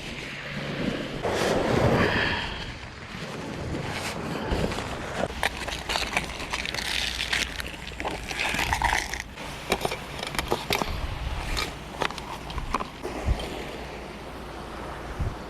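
Wind and surf at a seashore, with many short knocks and clatters scattered through it, like footsteps on stones or gear being handled.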